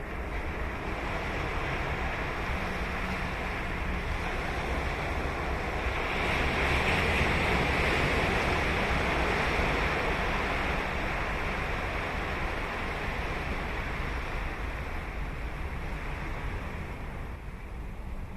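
Ocean waves breaking and washing up a sandy beach: a steady surf wash that swells about six seconds in as a wave breaks, then slowly eases off, with some wind on the microphone.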